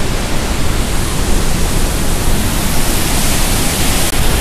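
Loud, steady rush of white water from the Merced River rapids below Vernal Fall.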